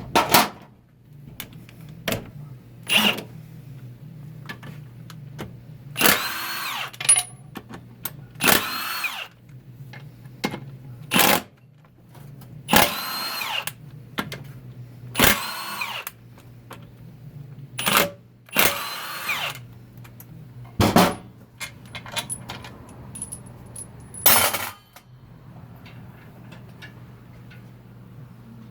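Power driver running in about ten short bursts, its motor spinning up in pitch each time, as Torx Plus bolts are backed out of a 4L60-E transmission during teardown.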